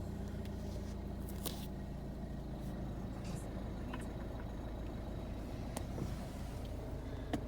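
Citroen DS4's 1.6 e-HDi diesel engine idling, heard from inside the cabin as a steady low hum, with a few light clicks scattered through it.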